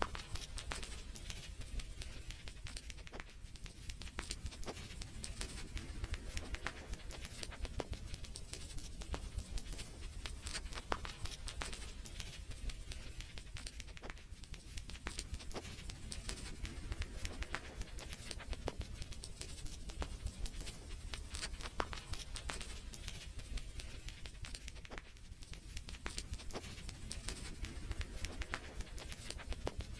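Wood fire crackling: many irregular sharp pops and snaps, over a steady low rumble.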